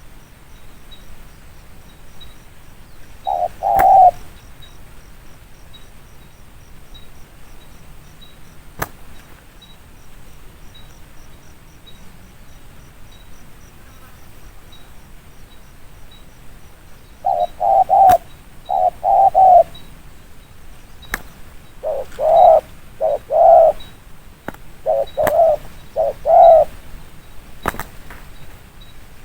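Spotted dove cooing: one short two-note coo a few seconds in, then, after a long pause, several quick groups of deep coos in a row near the end.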